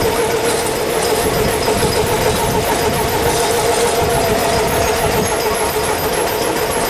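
Train Jaune, the metre-gauge electric train of the Cerdagne line, rolling along the track past the platform: a steady rumble under a held mid-pitched whine.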